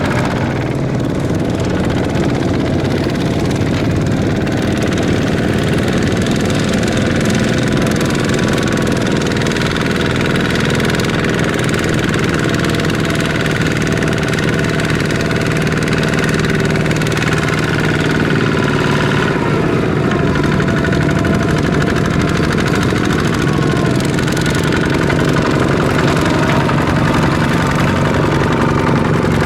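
Kubota ZT155 single-cylinder diesel engine of a small tractor running steadily with a fast clatter.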